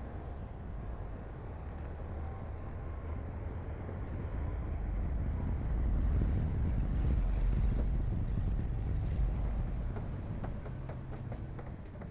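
Heavy diesel construction machinery running under load: a low, steady rumble that swells and is loudest midway through. A few faint clicks come near the end.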